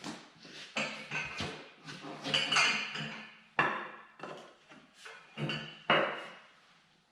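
Metal clanking and knocking: several sharp strikes, the loudest at about two and a half seconds and near six seconds, each ringing briefly, over a low steady hum in the first half.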